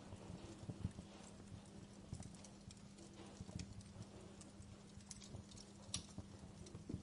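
Wood fire crackling in a fireplace: irregular snaps and pops over a soft steady hiss, with the sharpest pops about a second in and about six seconds in.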